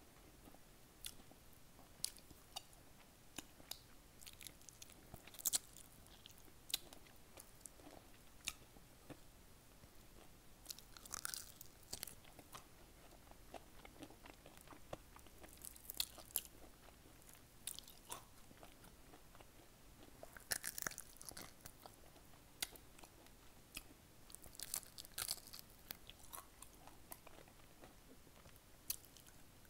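Close-miked chewing of fried chicken picked off the bone, heard as irregular sharp little crunches and wet mouth clicks with quiet gaps between, a few coming in short clusters.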